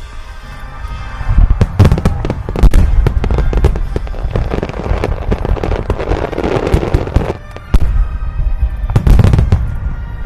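Fireworks going off: many loud sharp bangs, some in quick clusters, with a long stretch of dense crackling in the middle.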